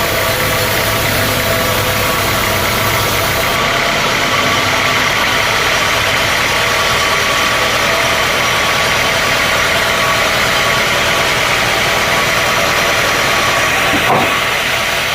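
Sawmill machinery running steadily with a loud, even mechanical noise, with one brief knock near the end.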